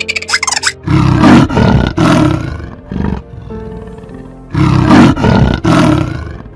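Loud animal roars, two long ones, a short one, then two more long ones, over background music. A rapid rattle of clicks at the very start.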